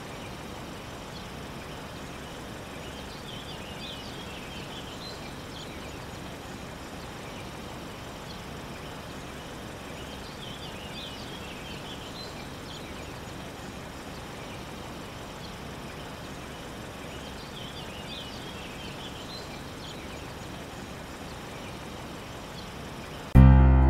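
Outdoor ambience: a steady low background hiss with a songbird chirping in three short bouts, about every seven seconds. Music comes in suddenly near the end.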